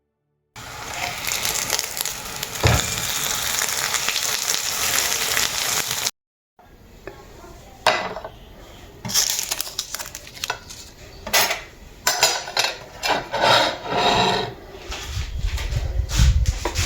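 Food sizzling in a pan with a steady hiss. After a break about six seconds in come irregular clinks and knocks of utensils against pots and dishes, as in stirring.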